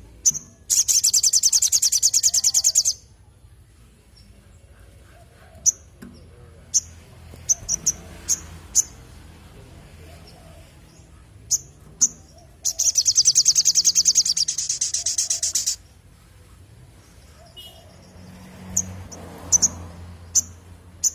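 Little spiderhunter (sogon) calling: sharp single high chips scattered throughout, and two long, rapid, even trills of about three seconds each, one near the start and one in the middle.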